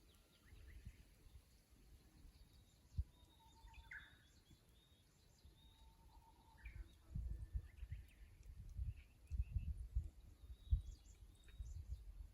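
Japanese bush warbler singing its "hoo-hokekyo" song twice, each a long held whistle breaking into a short higher flourish, with faint chirps of other small birds. Low rumbling gusts of noise come in from about seven seconds in.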